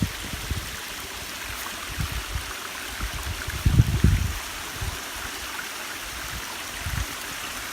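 Small woodland waterfall and stream rushing steadily. A few low muffled thumps sit under it, the loudest about halfway through.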